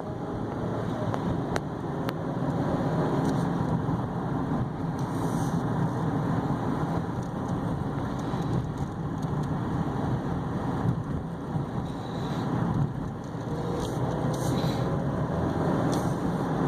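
Steady engine and road noise inside the cabin of a 2015 Chevy Equinox with its 2.4-litre four-cylinder, driving along.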